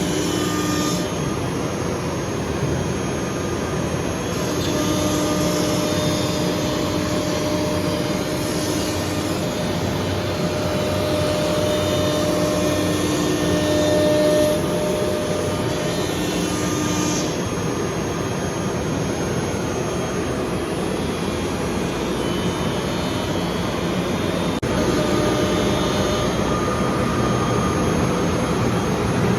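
Woodworking shop machinery running steadily: a continuous whooshing drone with a faint hum that comes and goes.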